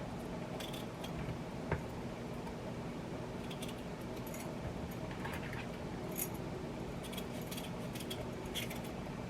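Light scrapes and ticks of a potato being worked by hand with a blade, over a steady low hum, with one soft knock about two seconds in.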